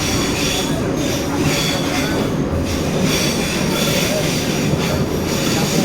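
Metro train running between stations, heard from inside the car: a steady loud rumble with high-pitched wheel squeal wavering on top.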